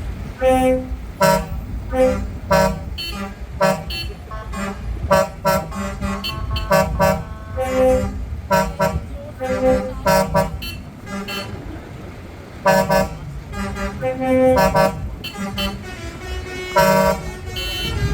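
Trucks' horns honking again and again as the parade rolls by: many short blasts at several different pitches, some overlapping, over the low rumble of truck engines.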